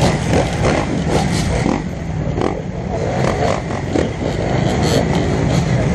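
Dirt bike engine running steadily, easing off slightly in the middle.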